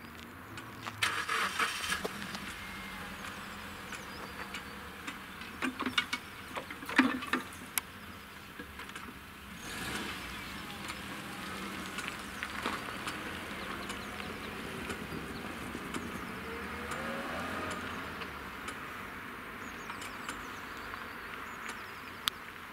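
A vehicle engine starting off and pulling away, its pitch rising slowly, after a few bouts of clattering knocks.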